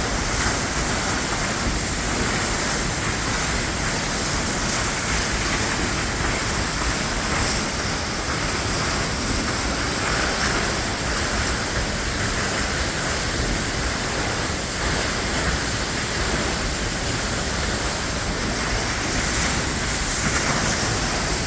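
Waterfall pouring onto rocks close by: a steady, loud rush of falling water with spray.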